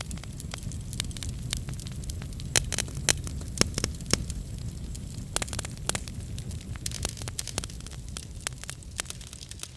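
Wood fire crackling in a fireplace: irregular sharp pops and snaps over a steady low rumble of the flames, with a cluster of louder pops between about two and a half and four seconds in.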